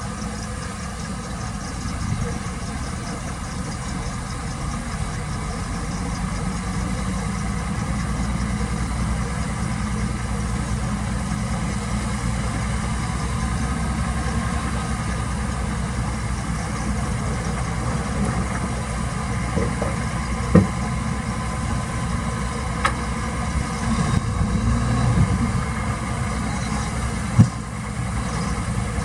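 Heavy diesel machinery engine running steadily, with a couple of sharp knocks about two-thirds of the way in and again near the end.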